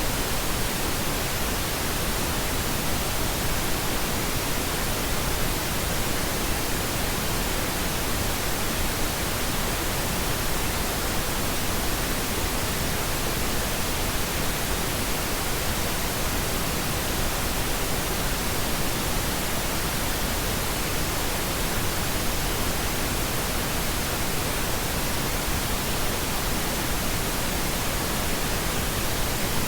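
Pink noise: a steady, unchanging hiss spread evenly across the whole range of pitch, with no events in it.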